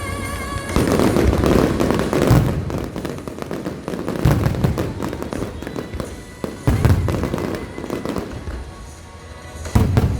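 Aerial fireworks shells bursting: deep booms every two seconds or so, with dense crackling after the first bursts. Music plays underneath.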